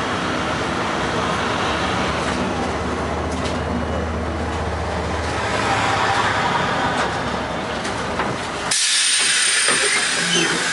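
LM-68M tram running along the rails, a steady rumble with a low hum that fades out about halfway through. Near the end the low rumble cuts off abruptly and a brighter hiss takes over.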